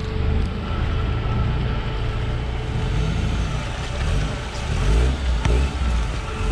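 Off-road vehicle's engine running and revving up and down under load, with a sharp knock about five and a half seconds in.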